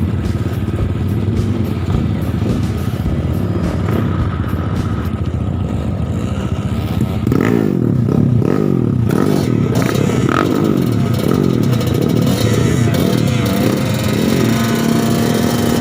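Trail motorcycle engine running, then from about seven seconds in revving up and down over and over.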